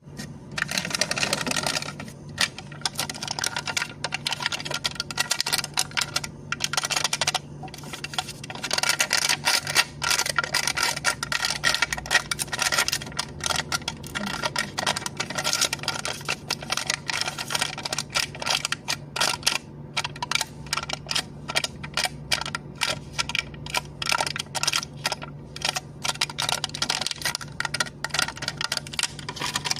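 Cup lid being tapped and clicked in rapid, irregular runs of sharp clicks, over a faint steady low hum.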